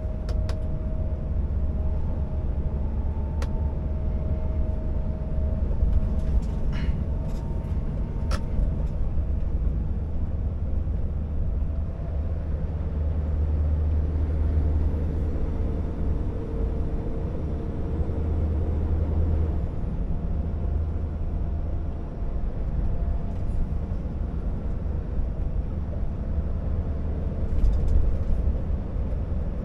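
Scania R650 timber truck's V8 diesel running steadily as the loaded truck drives, a deep low drone. A few sharp clicks come in the first nine seconds and again near the end.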